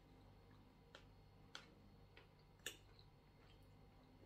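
Near silence with a few faint clicks, the clearest about two and a half seconds in: mouth sounds of someone chewing soft food with the mouth closed.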